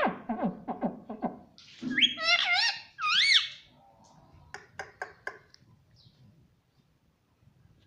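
Pet rose-ringed parakeet giving a few shrill calls that rise and fall, about two seconds in, between runs of sharp clicks.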